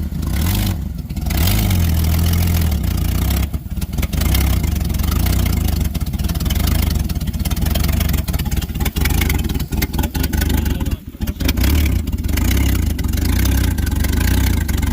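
Chevrolet pickup truck engine being started on a weak battery, turning over and running unevenly with some revving. It drops out briefly about eleven seconds in, then picks up again.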